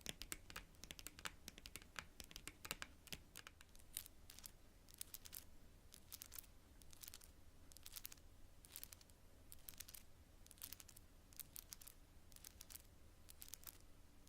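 Long natural fingernails tapping and scratching on cards: rapid, dense tapping for the first few seconds, then short clusters of taps about once a second.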